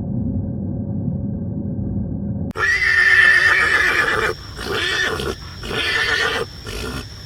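A low steady rumble, then an abrupt cut to a horse neighing: a loud, high whinny followed by several shorter, broken neighs.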